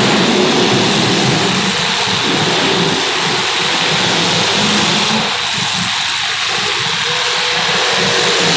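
Race-car engines running steadily during a feature race, with a constant engine drone that wavers slightly in pitch, over a hiss.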